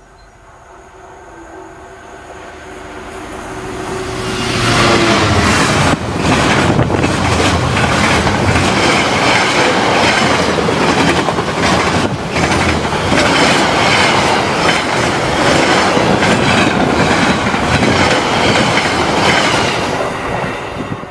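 A freight train approaching and passing close by at speed. It builds from a distant rumble to a loud, steady rush of wagons over the rails, with many wheel clacks, and drops away near the end.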